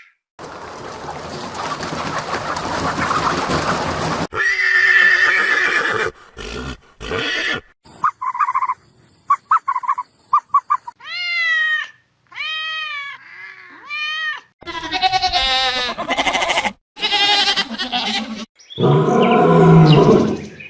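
A series of different animal calls played one after another with short gaps between them, including repeated arching high-pitched calls about two-thirds of the way through.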